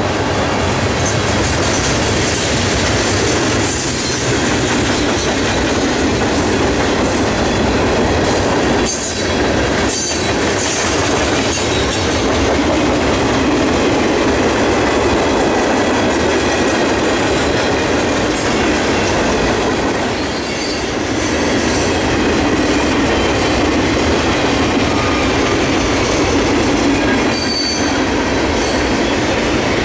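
Freight train cars rolling past at close range: steady wheel-on-rail noise from the passing tank cars and boxcars, with a few brief high squeals partway through.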